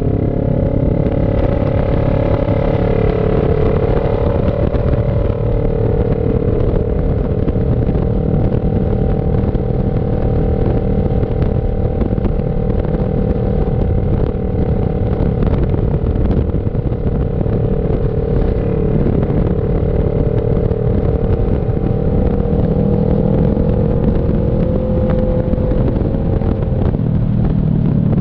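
CF Moto NK400 two-cylinder motorcycle engine running at a steady pitch while riding, easing down slightly near the end, with wind rumble on the microphone.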